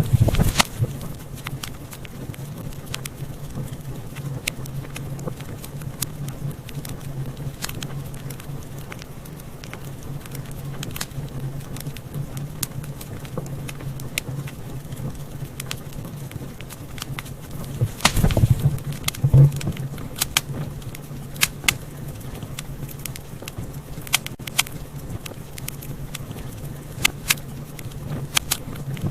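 Wood fire crackling in a fireplace: frequent sharp pops and snaps over a steady low rumble, with a cluster of louder pops about two-thirds of the way through.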